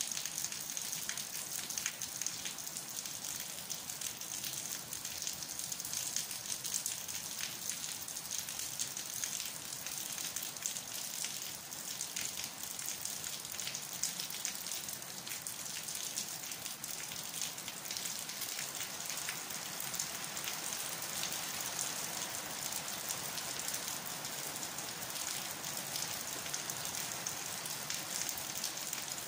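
Steady rain falling on leafy plants and a concrete block wall: an even hiss full of small, dense drop ticks.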